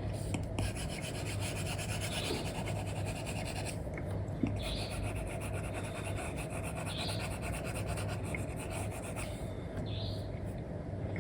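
Apple Pencil with an Elecom nib scratching rapidly across a paper-like screen protector on an iPad, in two long stretches of quick strokes, with a short pause about four seconds in and a stop near nine seconds. A steady low hum of background noise runs underneath.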